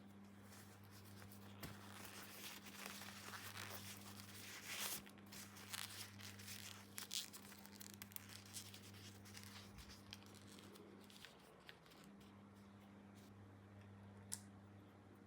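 Faint tearing and crinkling of toy packaging being pulled open by hand, busiest in the first half and thinning to scattered small clicks, over a steady low electrical hum.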